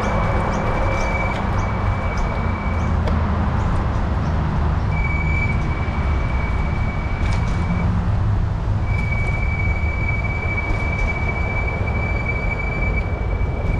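Wind rumbling on the microphone and tyre noise while cycling, with a thin, steady high-pitched whine that comes and goes three times, each lasting a few seconds.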